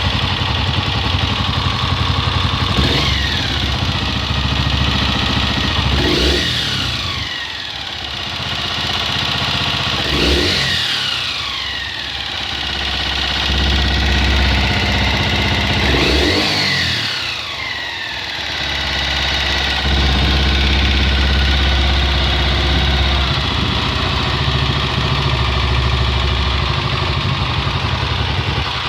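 Honda XLR ES motorcycle's single-cylinder engine idling, revved about five times in the first two-thirds, each rev falling back to idle, then running steadily. This is the strange engine noise the owner is showing.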